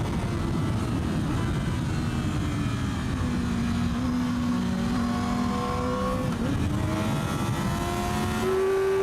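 Yamaha R6 inline-four sport bike engine accelerating under load, its note climbing slowly, dropping with a gear change about two-thirds of the way through, then climbing again, over a steady rush of wind in the helmet.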